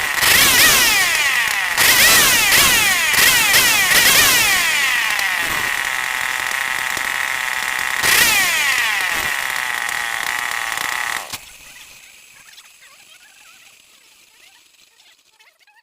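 Stihl 070 two-stroke engine running and being revved several times, the pitch falling back after each rev, then cutting off abruptly about eleven seconds in.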